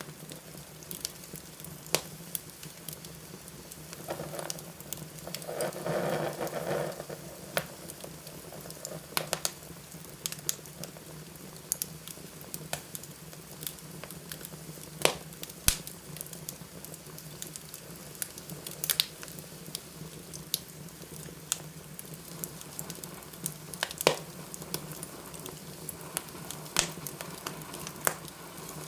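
Fire burning in a fireplace: a steady low rush with scattered sharp crackles and pops, and a louder hissing stretch from about four to seven seconds in.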